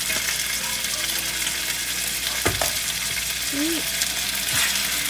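Diced raw chicken sizzling in hot oil with minced ginger and garlic in a metal pan, stirred with a wooden spatula. A single knock about halfway through.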